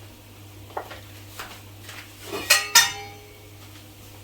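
Metal cookware clinking: a couple of light knocks, then two sharp ringing metal clinks about two and a half seconds in, as a utensil or lid meets a cooking pot. A steady low hum runs underneath.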